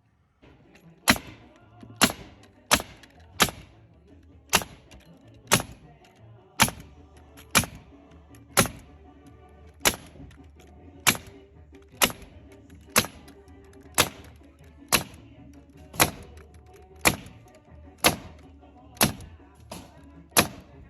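A long run of sharp shot-like bangs, about one a second, over background music.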